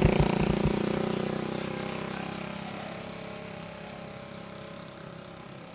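Vehicle engine running with wind and road noise, fading out steadily and gradually.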